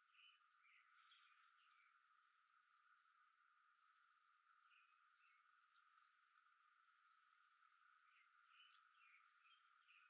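Faint small birds chirping: short high chirps repeated every half second to a second, with a few lower chirps mixed in, over a steady faint hiss.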